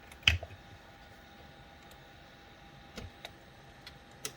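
Clicks from handling CB radio gear on the bench: one sharp click about a third of a second in, then a few fainter clicks near three seconds and near the end, over a faint steady hum.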